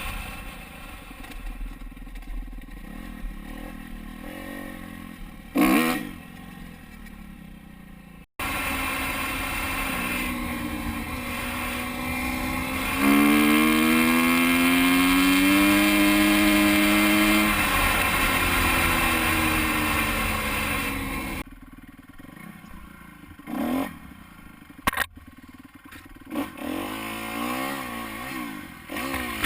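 Dirt bike engine running on a trail, with abrupt cuts between sections. It runs low with a brief throttle blip, then louder with a steady hiss as the engine revs up in one long climb. After that it drops back to quieter running with several short blips of throttle.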